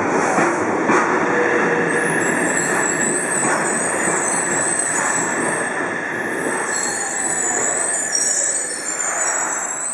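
Yokohama Municipal Subway Blue Line train running along the platform, with a steady running noise and a high, wavering wheel squeal that starts about two seconds in.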